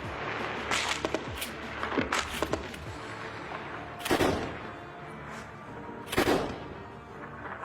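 Scattered gunshots, some single and some in quick clusters, each with an echoing tail; the two loudest come about four and six seconds in. Music plays faintly underneath.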